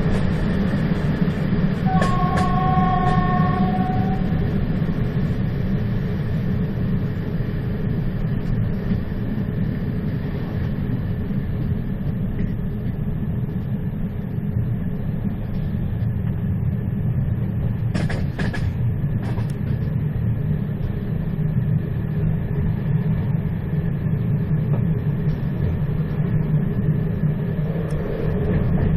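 A moving train running steadily, with a continuous low rumble. About two seconds in there is a brief high two-note squeal lasting about two seconds, and a few sharp clicks come past the middle.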